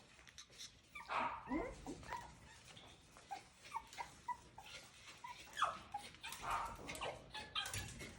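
Six-week-old Coton de Tulear puppies at play, giving many short high yips and whimpers, with scattered clicks and scuffles.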